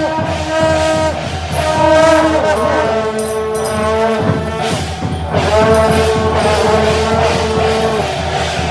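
Taiwanese temple procession music: wind instruments holding long notes that change pitch every second or two, over drums and clashing percussion.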